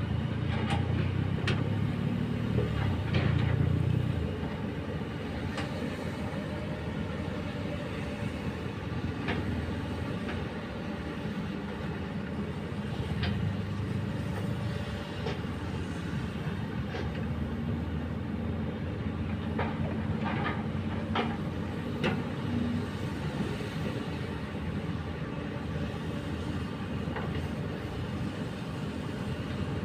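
Komatsu hydraulic excavator's diesel engine running steadily, somewhat louder for the first few seconds, with scattered sharp metallic clanks and knocks over the rumble.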